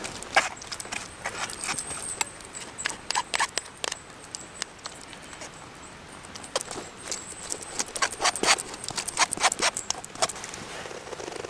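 An irregular run of sharp, light knocks and clicks with a short lull in the middle.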